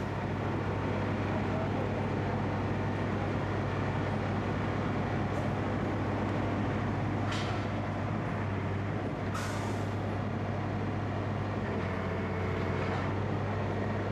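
Steady low drone of an idling engine, with short hisses about 7 and 9 seconds in.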